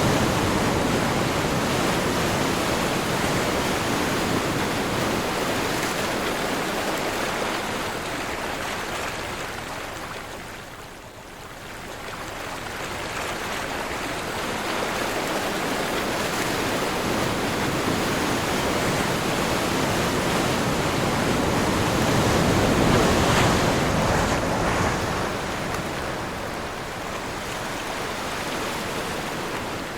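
Ocean surf with wind, a continuous rush of water that eases away to its quietest about a third of the way through, then builds again to a peak about three quarters of the way in.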